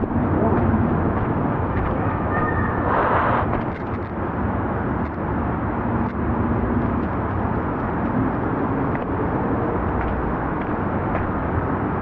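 A steady low rumble of noise, with a short brighter rise about three seconds in.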